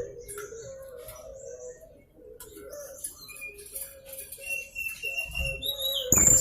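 Young blue-crowned hanging parrot (serindit) giving high, thin chirps and short whistled notes, over a steady, lower wavering tone that runs underneath. A sharp knock sounds near the end.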